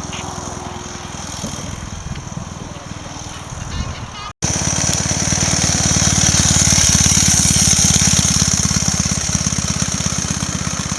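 1916 Douglas 2¾ hp motorcycle's 350 cc flat-twin engine running with a rapid, even beat. After a brief dropout about four seconds in, it comes back louder.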